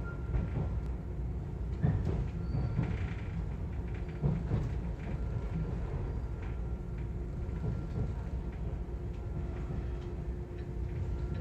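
Cabin of a 485-series train: the steady low rumble of the train running on the rails, with a few knocks from the running gear about two and four and a half seconds in.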